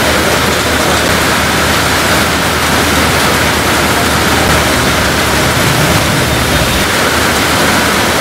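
Heavy rain pouring steadily onto a wet street, a loud, even hiss.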